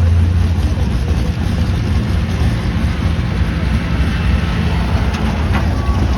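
A heavy pulling vehicle's engine running loud, its strong low note easing off about half a second in and settling into a steady low rumble.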